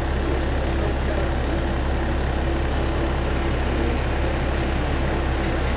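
A single-car diesel railcar running, heard from inside the cabin: a steady low engine and running drone with a faint broken tone over it and a few faint ticks.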